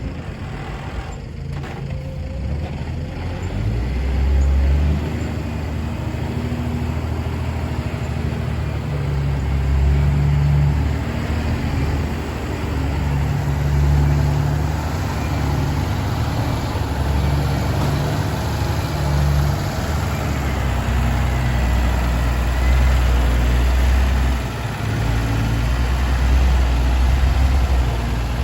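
Heavy diesel engines of ten-wheel dump trucks running, a deep low rumble that rises and falls in loudness several times.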